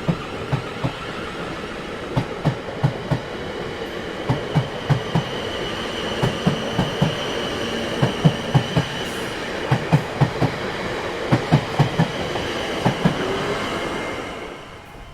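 Railway train rolling past, its wheels clacking over rail joints in repeated quick groups of clicks as each car goes by, with a faint high wheel squeal in the middle. The sound fades out near the end.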